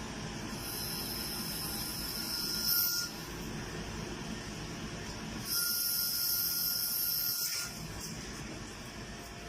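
Flat-bed CNC lathe running with a steady hum, broken twice by a high hiss with a thin whistle lasting two to three seconds, once near the start and again past the middle.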